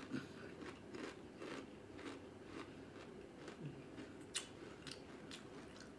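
Faint crunching of tortilla chips being chewed: a string of small crisp crunches, with a sharper one about four seconds in.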